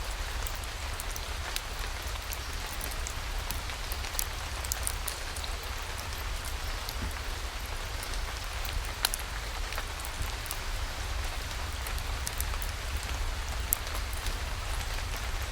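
Steady rainfall, an even hiss dotted with many sharp drops and clicks, over a constant low rumble.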